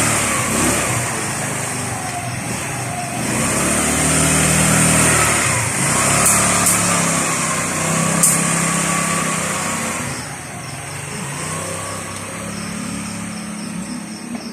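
Rusi 125cc scooter's engine running on a test ride after repair, its pitch rising and falling as it is revved and eased off several times, then growing fainter after about ten seconds as it moves away.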